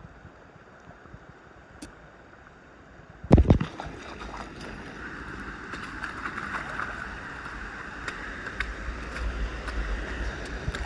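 Quiet at first, then a single loud knock about three seconds in, followed by steady rushing creek water with wind rumbling on the microphone.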